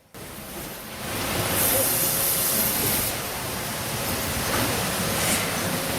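Sawmill head rig machinery running: a steady hiss and rumble, with a brighter, louder hiss from about one and a half to three seconds in and a brief one about five seconds in.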